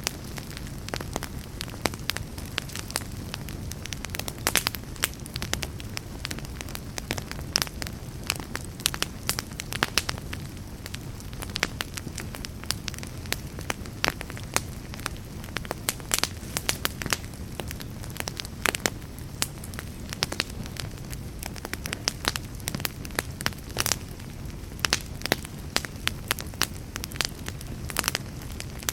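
Log fire crackling: many irregular sharp pops and snaps over a steady low rumble of burning.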